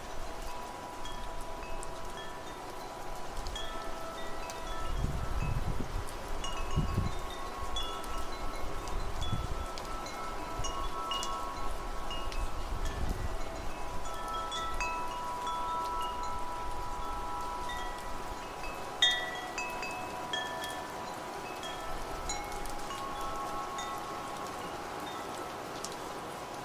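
Wind chimes ringing continuously, many tones overlapping and sustaining, with a few low gusts of wind rumbling in the first half and one louder strike of the chimes about two-thirds of the way through.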